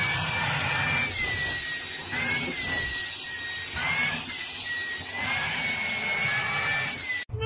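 Vacuum cleaner running steadily as its hose nozzle is pressed over a cat's fur. Its high whine wavers, dipping and rising several times, and the sound cuts off suddenly near the end.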